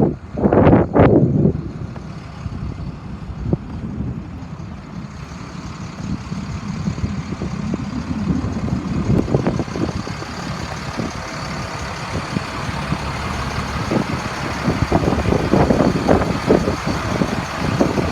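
International 4400's DT466 inline-six diesel running steadily at idle with the PTO engaged, a low rumble. A loud rush of noise comes about a second in, and short knocks come about halfway through and again over the last few seconds.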